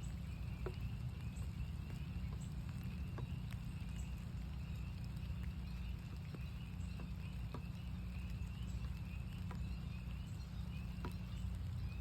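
A chorus of northern spring peepers, many high peeps overlapping continuously, with raindrops ticking at irregular intervals over a steady low rumble.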